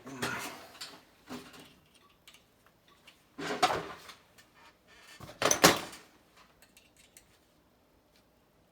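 Several short scraping and sliding handling sounds from work on the parts, four separate bursts, the loudest a little past the middle, then quiet. No pump or motor is running.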